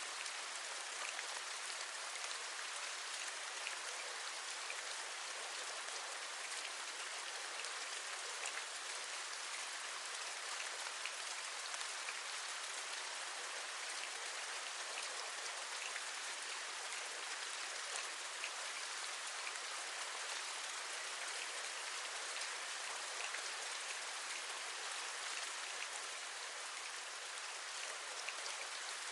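Steady rain, with many separate raindrops tapping against a window.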